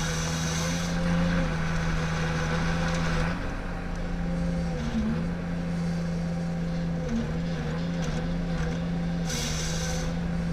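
Ponsse Ergo harvester's diesel engine running steadily, its pitch dipping briefly several times as it takes load, with a short hiss near the start and again near the end.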